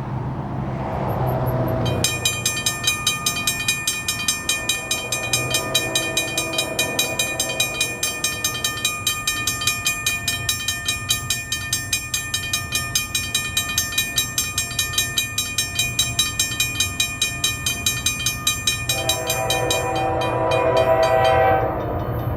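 A railroad grade-crossing bell rings rapidly and steadily as a CSX diesel freight train approaches. Near the end the locomotive's horn sounds a loud sustained chord, then cuts off.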